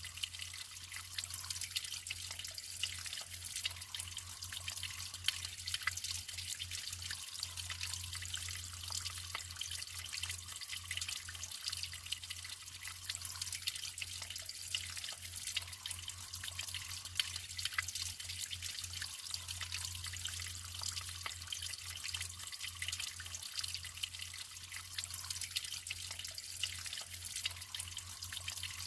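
Natural running water trickling and splashing steadily, with many small drips and splashes.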